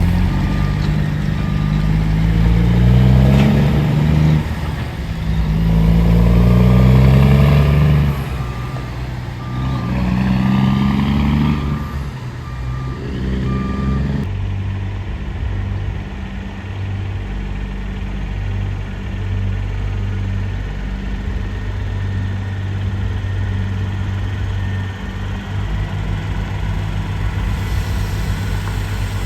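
Heavy truck's diesel engine pulling away and revving up through three gears, each rising pitch broken off by a shift, with an intermittent beeping alongside. About halfway the sound changes abruptly to a steady, low engine running.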